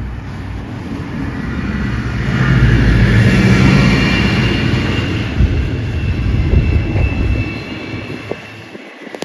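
A heavy vehicle passing close by: its low engine rumble swells to a peak about three seconds in, then fades away over the next few seconds.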